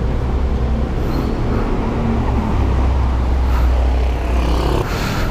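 Car engine running close by amid road traffic: a low steady rumble that drops away near the end.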